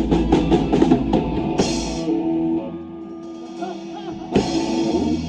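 Live rock band ending a song: a quick drum fill on the kit, then cymbal crashes with an electric guitar chord left ringing, and a second crash near the end.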